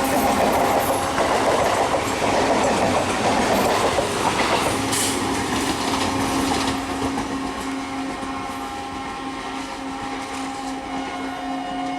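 Train running past on the tracks, its wheels rattling over the rails. About five seconds in, the rattle thins and a steady hum takes over as the train moves away.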